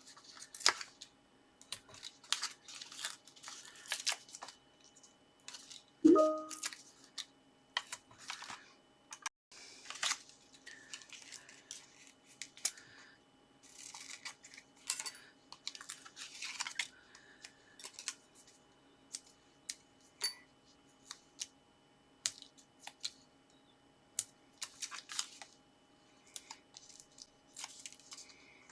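Cardstock and paper being handled on a craft table: a string of short rustles, scrapes and small tearing sounds, as foam pads have their backing peeled off and card pieces are laid down. One louder knock with a brief ring about six seconds in.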